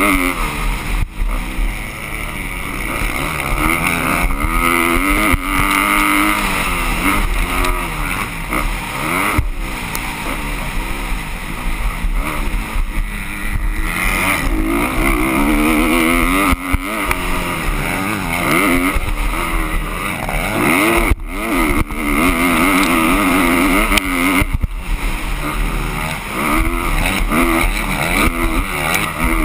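Motocross bike engines revving up and down over and over as they race, with pitch climbing and falling through the gears over a constant rush of noise.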